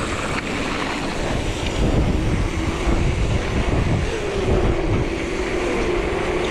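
Wind buffeting an action camera's microphone during a fast downhill mountain bike descent, over a low rumble of the bike running over the trail. A faint steady tone joins about four seconds in.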